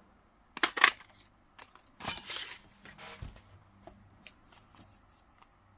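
A handheld craft paper punch snapping through cardstock: two quick sharp clacks under a second in, then paper rustling and small taps as the pieces are handled.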